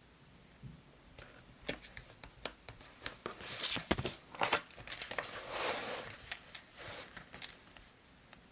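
Paper being handled while decorating a diary: crinkling and rustling mixed with small clicks and taps, busiest in the middle and dying away near the end.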